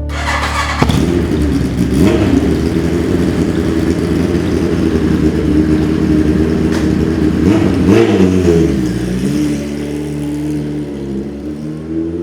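Classic 1970s Japanese superbike engine running, revved up and let back down about eight seconds in, with a smaller blip of the throttle near the end.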